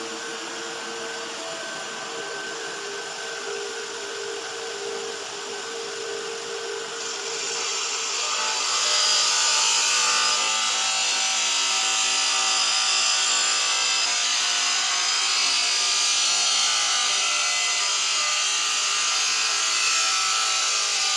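CNC bridge saw's diamond blade cutting a stone slab. A steady machine hum with a few held tones turns into a louder, hissing grind about eight seconds in as the blade works through the stone.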